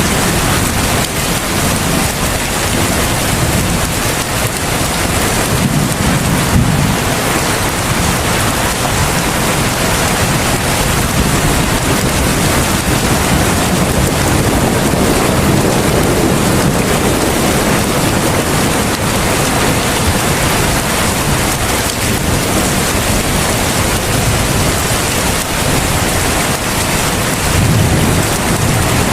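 Heavy rain falling steadily in a dense, even hiss, with distant thunder rumbling low a few times, swelling and fading.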